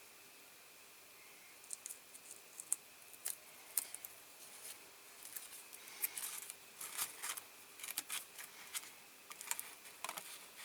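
Light, sharp clicks and snips of small hand work on a diecast toy car, sparse at first and busier from about six seconds in.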